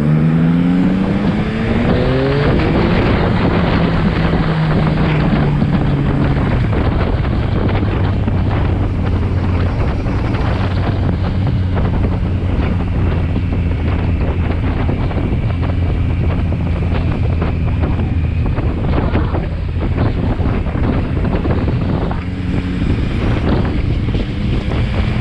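Motorcycle engine pulling hard with its pitch rising, a gear change about two seconds in, then settling to a steady cruise. Heavy wind noise on the microphone runs under it.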